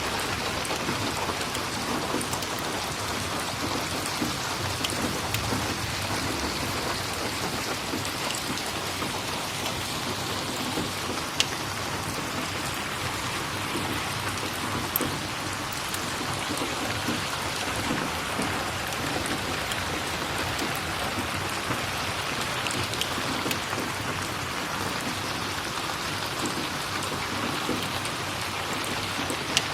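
Steady rain falling, an even hiss throughout, with a few sharp crackles from a wood fire now and then.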